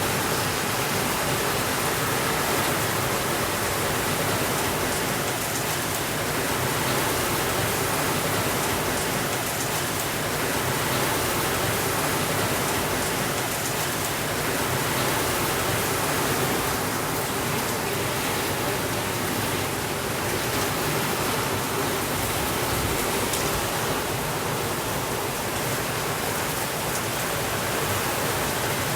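Steady rainfall, an even hiss of rain with no thunder and no change in level.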